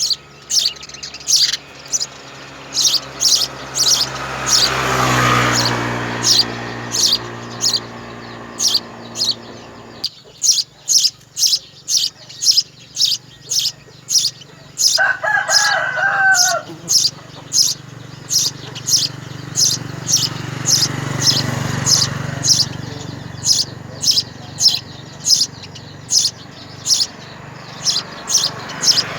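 Young birds in a nest chirping over and over, sharp high chirps about twice a second, typical of hungry nestlings begging for food. A short, lower wavering call breaks in about halfway through.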